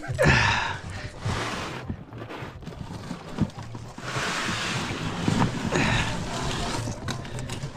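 Kayak paddles splashing and churning the water in quick strokes, with wind gusting on the microphone.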